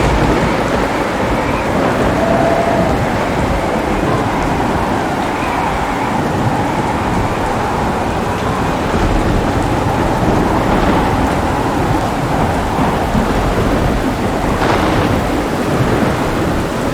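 Heavy rain falling steadily, with a deep rumble of thunder that sets in right at the start and rolls on underneath throughout.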